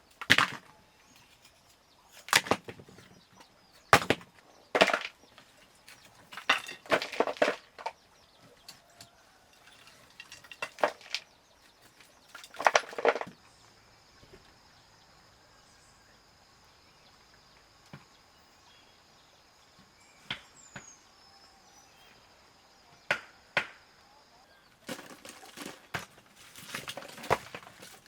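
Irregular wooden knocks and rustling clatter, coming in clusters a second or two apart. There is a quieter stretch in the middle, then a fresh run of knocks near the end.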